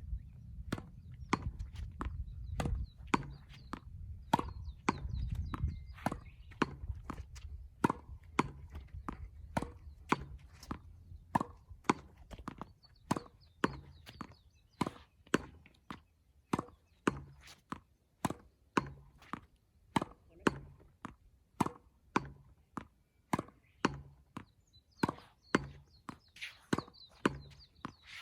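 Tennis balls being struck by rackets and bouncing on the court in a steady rally, a regular string of sharp pops about two a second. A low rumble, like wind on the microphone, sits under the first few seconds.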